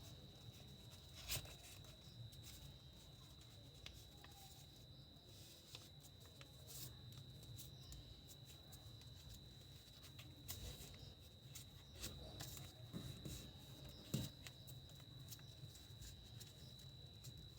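Faint paper handling: a sheet of paper being creased and folded, with scattered soft rustles and clicks, two a little louder, about a second in and near the end. A steady faint high-pitched whine sits under it.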